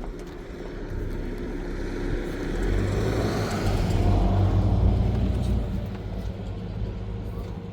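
Motor vehicle engine running, growing louder to a peak about four to five seconds in, then easing off.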